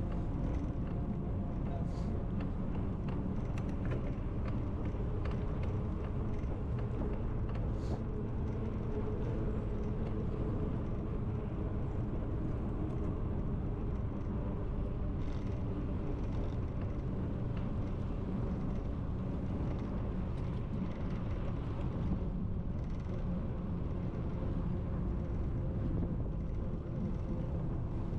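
Steady rumbling road and wind noise from a moving bicycle, with a few faint light clicks here and there.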